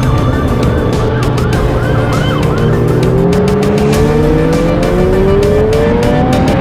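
A vehicle engine accelerating, its pitch climbing steadily. A police siren warbles over it in the first half.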